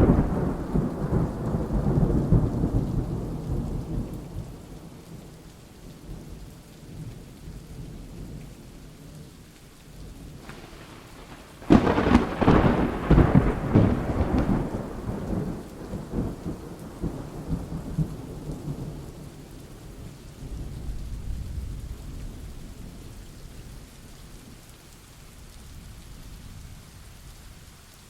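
Thunderstorm with steady rain. A roll of thunder fades over the first few seconds. About twelve seconds in, a sudden loud thunderclap breaks into long rolling rumbles that die away.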